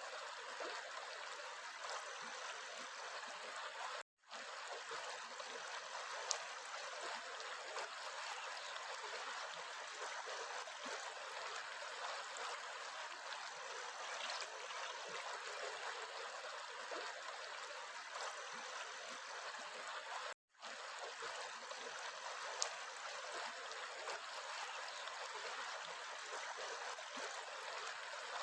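Steady rush and trickle of a flowing stream. It cuts out to silence for a split second twice, about four seconds in and again about twenty seconds in.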